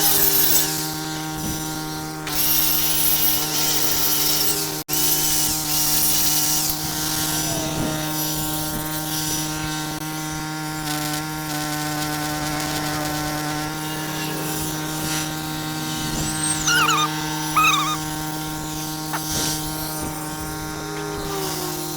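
An engine runs steadily with an even hum throughout. In the first seven seconds it is overlaid by three bursts of scratchy metal scraping, like wire-brushing. A couple of short high squeaks come about seventeen seconds in.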